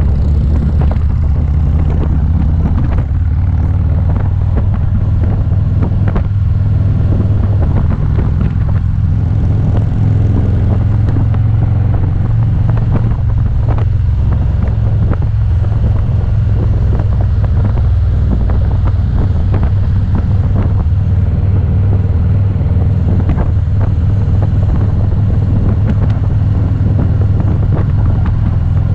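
Motorcycle engine running at a steady cruise, a low even drone with no change in pitch, with wind buffeting the microphone.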